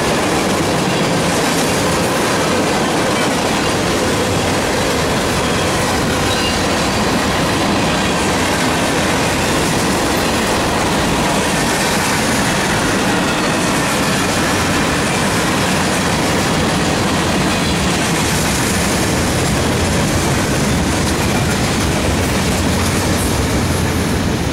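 Cars of a freight train rolling past at close range: a steady, loud rumble of steel wheels running over the rails, with faint high wheel squeal.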